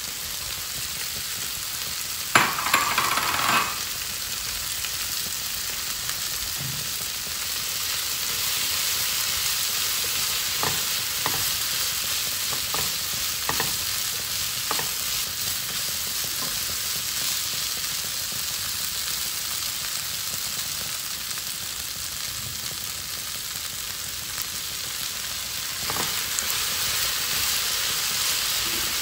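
Paneer and vegetables sizzling in a hot nonstick pan while being stirred with a silicone spatula. A loud burst of sizzle comes about two seconds in as the fried paneer cubes tip into the pan, and the spatula taps lightly against the pan a few times midway.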